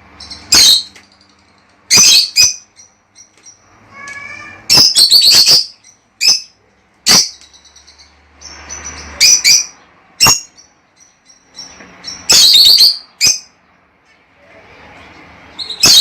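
Lovebirds calling in loud, shrill, short chirping bursts, a dozen or so at irregular intervals, some single and some in quick clusters.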